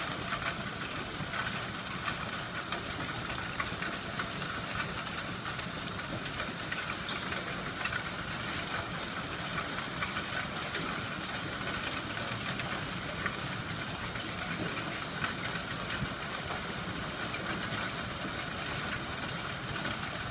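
Heavy rain pouring down steadily, a dense even hiss with scattered sharp ticks of drops striking.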